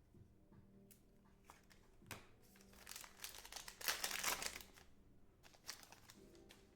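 Crinkling of a trading-card pack wrapper and cards being handled, with a louder stretch of crinkling about three to four and a half seconds in.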